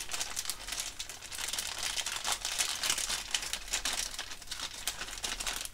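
Thin plastic bags of model-kit parts crinkling and rustling as they are handled and pulled out of a cardboard kit box, in irregular crackles.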